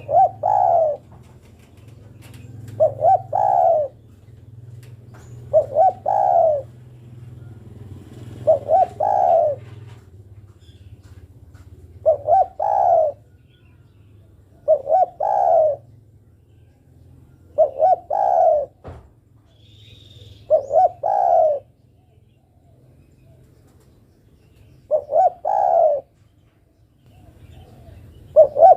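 Female spotted dove cooing: a short phrase of a quick note or two then a longer coo, repeated about every three seconds, over a faint low hum.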